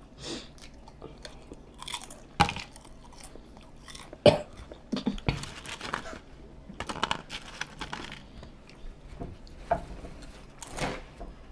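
Close-up chewing and crunching of fried, Hot Cheetos-coated snacks, in irregular bites with a couple of sharper, louder crunches in the first half.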